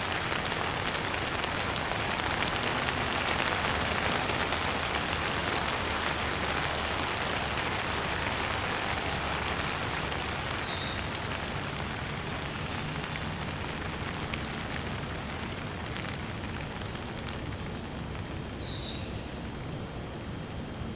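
Steady rain falling and pattering on surfaces, a dense even hiss that eases slightly toward the end. Two brief high chirps sound over it, about halfway through and near the end.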